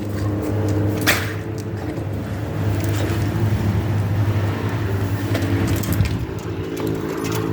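A motor vehicle engine idling steadily, with a short sharp burst about a second in.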